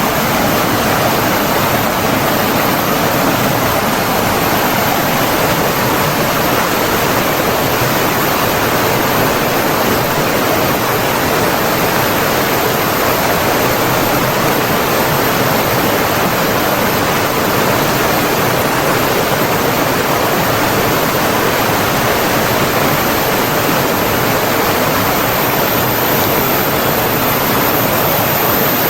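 Flowing water rushing steadily and evenly, like a stream or small waterfall, with no change in strength.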